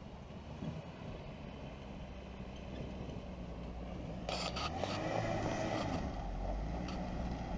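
Pickup truck engine running at low revs with a steady low drone; about four seconds in it grows louder with an added rushing noise.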